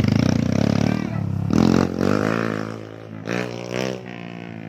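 Motocross dirt bike engine running and revving, its pitch wavering up and down. It is loudest in the first second, and revs again briefly twice before fading.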